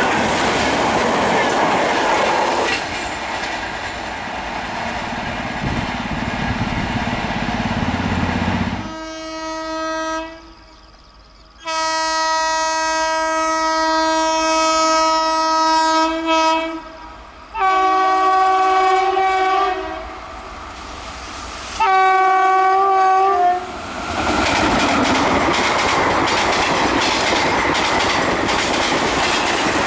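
Express train coaches rolling past with wheels clattering over the rail joints. An approaching Indian Railways locomotive then sounds its horn four times, one short blast followed by a long one of about five seconds and two shorter ones, before the train passes with loud rolling wheel noise.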